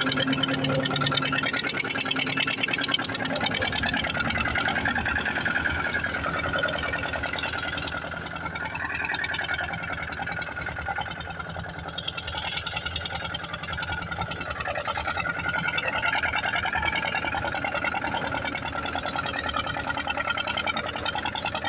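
Diesel engine of an HMT 2511 tractor running steadily with a fast, even clatter while pulling a cultivator under load. It gets a little quieter in the middle, then rises again.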